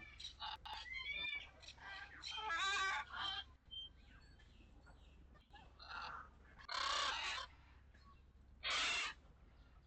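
Birds calling: a quick run of chirps and warbling calls in the first few seconds, then three louder, harsh calls.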